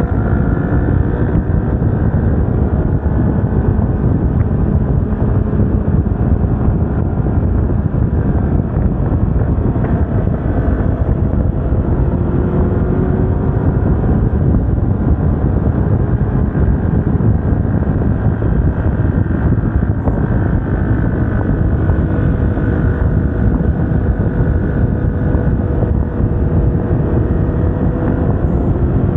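Yamaha R25's 249 cc parallel-twin engine running under way, its pitch drifting gently up and down with throttle and speed, over a steady rush of wind noise on the microphone.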